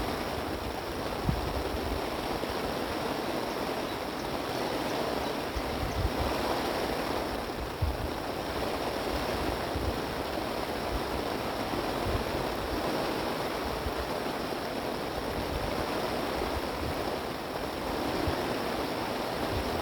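Wind blowing steadily, with water washing and splashing in a continuous rush. Every few seconds low gusts thump on the microphone.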